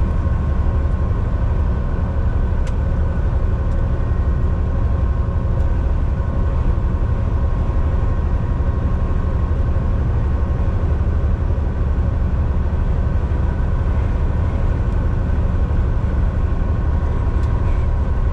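Volvo VNL 760 semi truck heard from inside the cab while driving: a steady, deep rumble of engine and road, with a faint constant whine over it.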